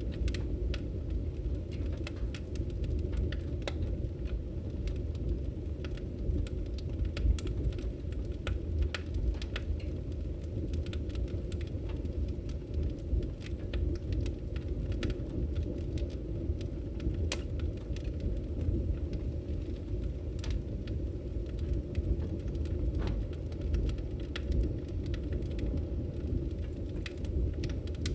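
Wood fire in a fireplace crackling: a steady low rumble of burning, with frequent small sharp pops and snaps scattered irregularly throughout.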